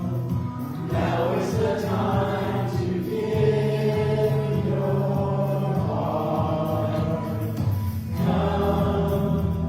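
Slow choral singing of a hymn or sung response, with held notes changing every second or two over a sustained low accompaniment.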